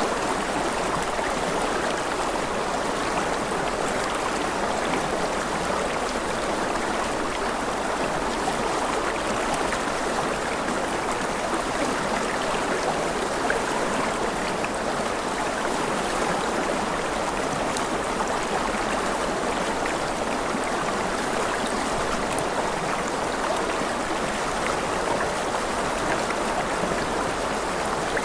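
Running water, a stream flowing steadily and evenly.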